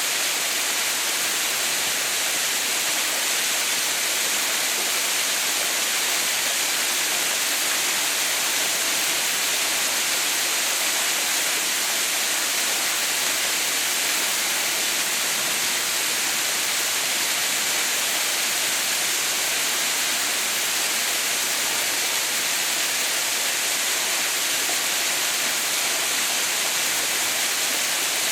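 Water pouring down a small mountain waterfall that is partly frozen into an icefall: a steady, hissing rush with no breaks.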